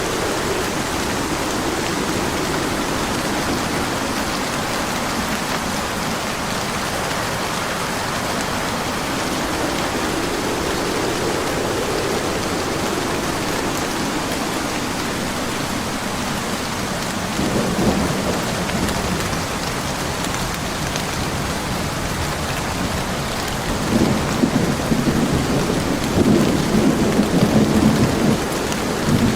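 Steady rain falling, with thunder rumbling low several times; the loudest, longest rumble comes in the last few seconds.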